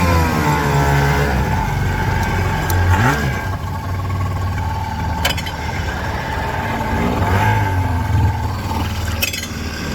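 Twin two-stroke outboard motors on a jet jon boat running, the revs dropping in the first second, then running lower with the pitch swelling up around three seconds and again around seven. A couple of sharp knocks come near the middle and near the end.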